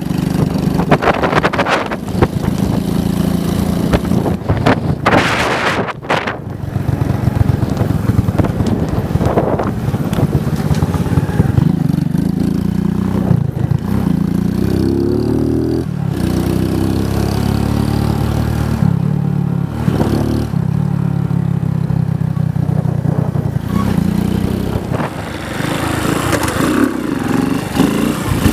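Motorcycle engine running under way, its revs climbing and dropping as it accelerates and eases off, with wind buffeting the microphone in the first few seconds.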